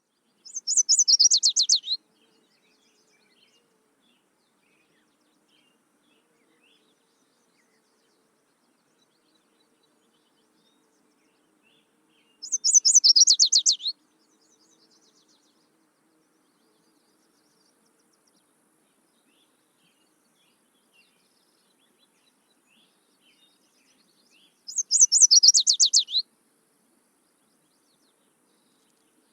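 Songbird call played three times, about twelve seconds apart: each time a fast, high-pitched trill of about a second and a half, made of quick falling notes.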